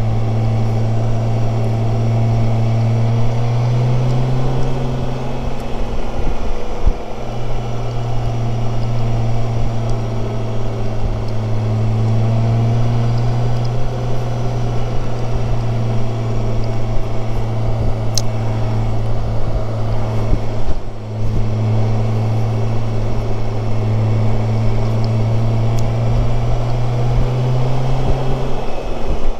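BMW K1600GTL inline-six motorcycle engine running at a steady cruise, its low note rising and falling slightly. The engine note dips briefly twice. Wind rushes over the helmet-mounted microphone.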